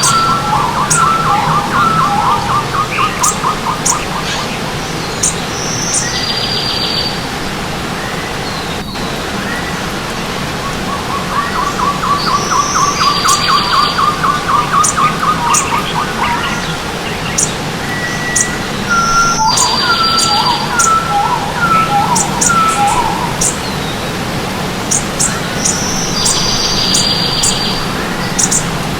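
Several birds singing and calling over the steady rush of running stream water. The song includes rapid trilled phrases, short whistled notes and high buzzy calls, and the same phrases recur about every six to seven seconds.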